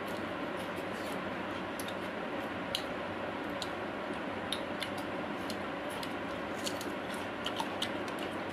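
Eating sounds: people chewing food and smacking their lips, heard as small, sharp, irregular clicks over a steady background hiss.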